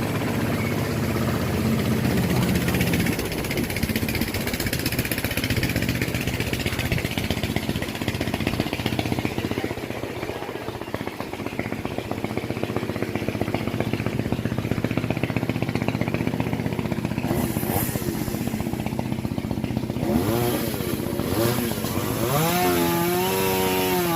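Two-stroke chainsaw running at a steady speed, then revving up and down repeatedly near the end.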